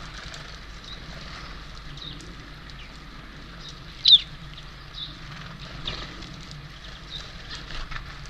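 Small songbirds calling at a bird feeder: scattered short chirps, with one loud, sharp, falling call about four seconds in, over a steady low hum.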